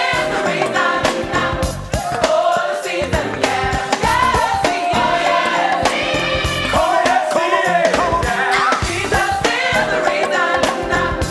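A choir singing a song to band accompaniment with a steady drum beat.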